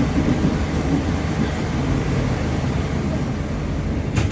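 Steady low rumble of a moving passenger train heard from inside the carriage, with one sharp knock near the end.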